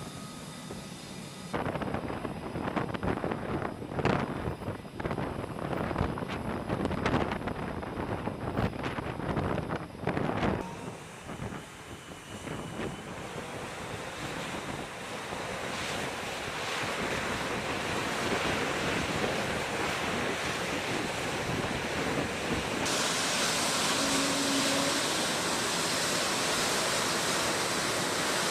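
Wind buffeting the microphone on an aircraft carrier's flight deck in gusts. After a cut this gives way to a steady rushing roar that slowly grows louder.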